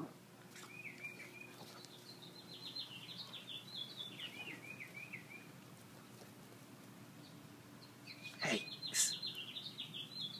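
A songbird singing faintly in two runs of quick repeated chirping notes, with a short sharp sound about eight and a half seconds in.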